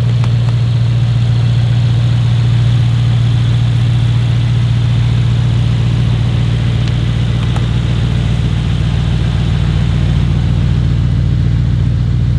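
Tuned Mercedes-AMG E63s 4Matic+ twin-turbo V8 idling steadily with an even, low-pitched drone.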